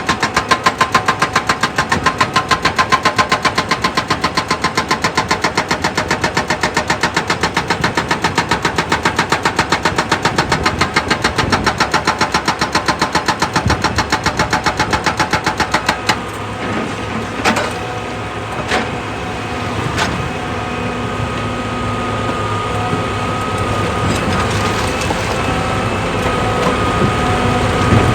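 Heavy machinery: a fast, even hammering at about ten strokes a second that stops suddenly about sixteen seconds in. After it comes a steady engine sound with a few sharp knocks, slowly growing louder.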